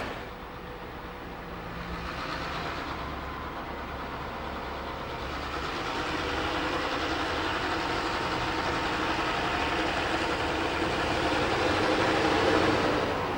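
Diesel locomotive running with a train, growing gradually louder as it approaches, with the steady engine note under the rail noise.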